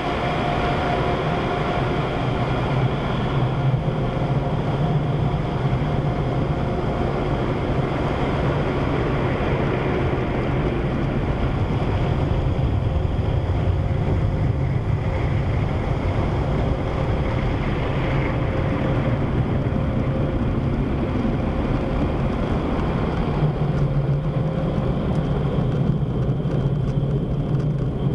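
Automatic conveyor car wash machinery running steadily: a loud, even rush of noise with a low hum and faint steady tones.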